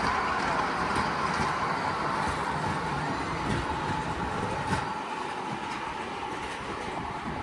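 Small train running on its track: a steady rumbling rattle with a faint whine and a few scattered clicks, easing off a little about two-thirds of the way through.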